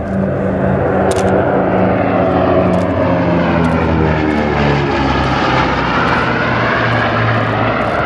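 Boeing B-29 Superfortress with four Wright R-3350 radial engines flying past, its engine and propeller drone loud and dropping in pitch about halfway through as it goes by.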